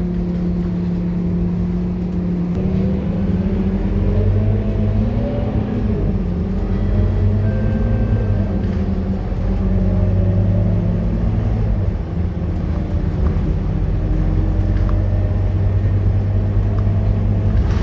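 Scania K230UB bus's diesel engine running. Its note changes about two and a half seconds in, rises and falls briefly, then settles into a steady lower drone.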